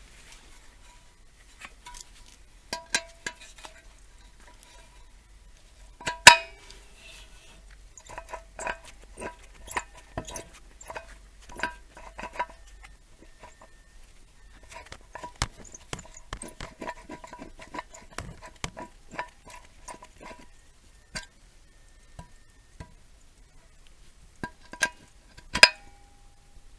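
Metal tools and parts clinking and tapping against each other in irregular clicks, each with a short metallic ring. There is a sharp loud clank about six seconds in and another near the end.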